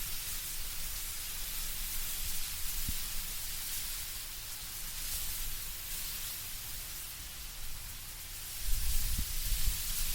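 Wind blowing through trees with a steady hiss of rustling leaves. A low rumble of wind rises near the end.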